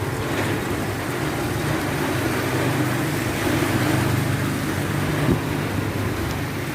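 Heavy rain falling in a steady, loud hiss, with a steady low hum underneath and a brief knock about five seconds in.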